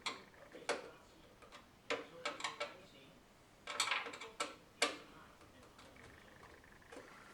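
Irregular short clicks and knocks of an optical drive being fitted and fastened into a PC case, some single and some in quick clusters, with a denser patch about four seconds in.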